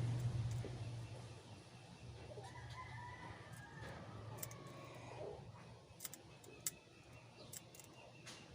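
A rooster crows once in the background, a long call of about three seconds that rises and then falls away. A low hum fades out in the first second or two, and a few light clicks come near the end.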